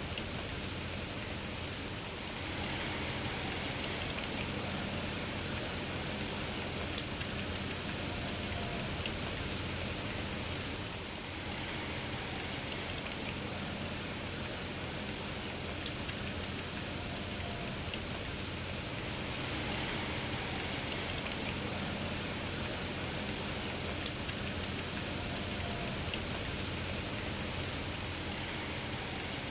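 Steady rain falling, with three sharp clicks about eight seconds apart.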